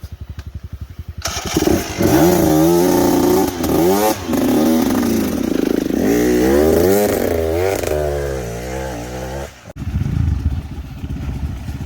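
Dirt bike engine ticking over, then revved hard about a second in, its pitch rising and falling again and again for about eight seconds before it cuts off abruptly and drops back to a low running sound.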